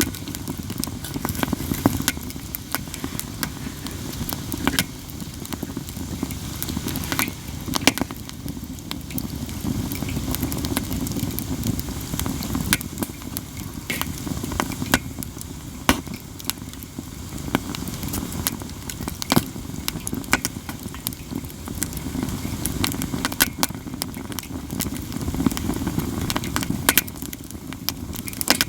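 Katsura wood campfire crackling steadily, with frequent sharp, loud pops scattered irregularly through, over a steady low rumble.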